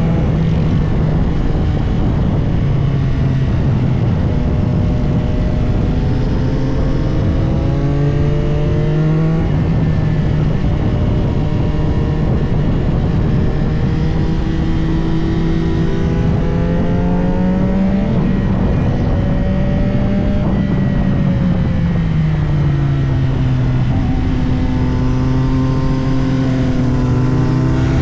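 CFMOTO 675SR-R sport bike's inline three-cylinder engine running hard on the throttle. Its pitch climbs and falls again and again as it accelerates and shifts, over a constant rush of wind noise.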